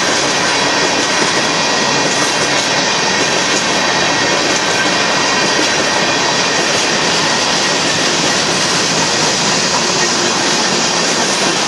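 Covered hopper cars of a Union Pacific freight train rolling past close by: a loud, steady noise of steel wheels running on the rails, with faint steady high tones above it.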